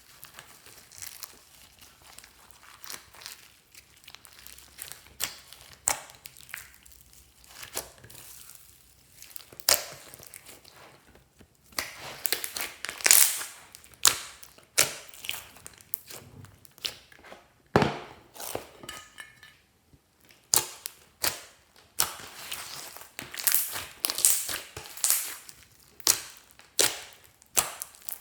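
Hands squishing and pressing glossy slime, giving irregular sharp clicks and pops that come thicker and louder in the second half.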